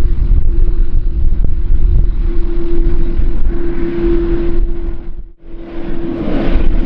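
Strong wind buffeting the microphone over the steady noise of jet airliner engines, with a constant hum running through it. The noise drops out briefly about five seconds in, then builds back up.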